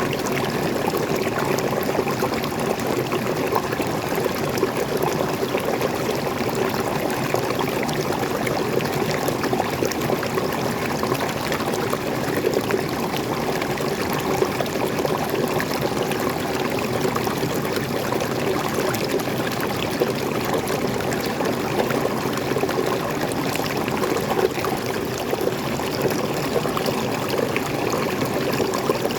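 Freshwater waterfall splashing and pouring: a steady, even rush of water dense with small splashes.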